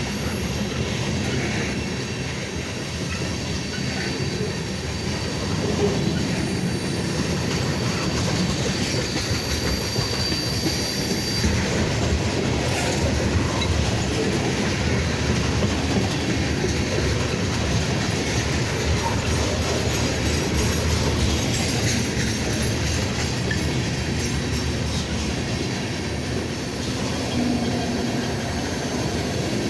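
Freight cars of a slow mixed freight train rolling past, a steady rumble of steel wheels on rail with clicking over the rail joints. A thin high wheel squeal runs through the first third and then fades out.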